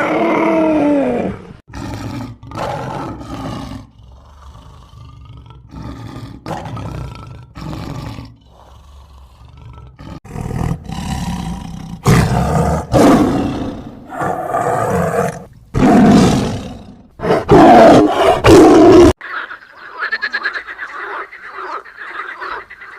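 A big cat, lion or tiger, giving a series of loud roars and growls, each call rough and separate. Near the end the roaring stops and a denser, quieter chorus of frog croaks takes over.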